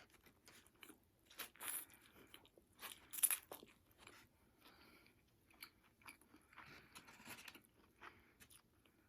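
A person chewing and biting food close to the microphone: faint, irregular crunches, loudest a little after three seconds in.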